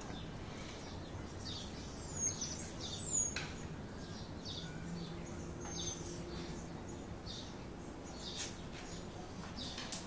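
Small birds chirping over and over in short high notes, with a few high whistled glides near the start, over a faint steady low hum.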